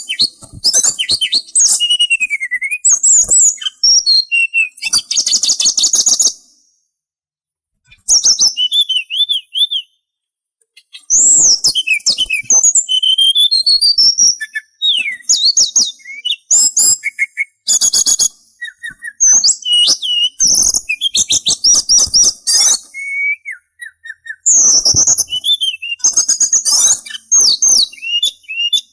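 A sulingan songbird singing a fast, varied song of sweeping whistles, chirps and rapid trills, broken by two short pauses a few seconds in and about ten seconds in; a masteran recording used to teach caged songbirds.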